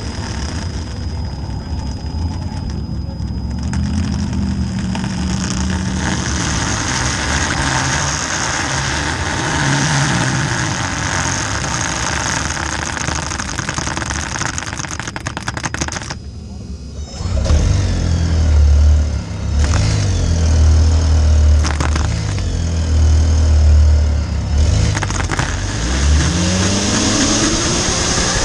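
Car engines running, with a heavy deep rumble through the second half and an engine revving up, rising in pitch, near the end.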